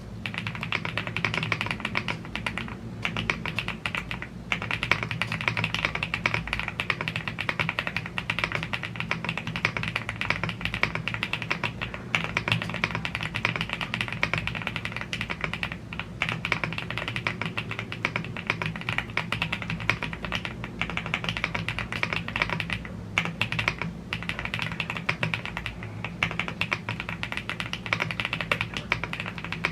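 Continuous fast typing on a YUNZII AL75 gasket-mounted CNC aluminium mechanical keyboard with Blue Grey tactile switches and double-shot PBT Cherry-profile keycaps, with a few brief pauses.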